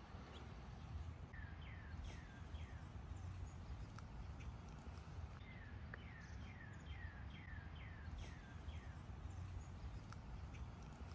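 A bird calling a series of short notes that each fall in pitch, about three a second: a few at first, then a longer run from about five seconds in. Under it is a steady low rumble.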